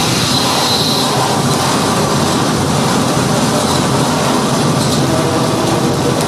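Harsh noise music played live through a PA: a loud, unbroken wall of distorted electronic noise that keeps up at full level without pause.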